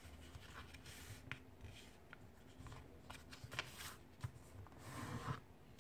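A sheet of printer paper being folded and creased by hand: soft rustling and faint sharp crinkles, loudest around the middle and near the end.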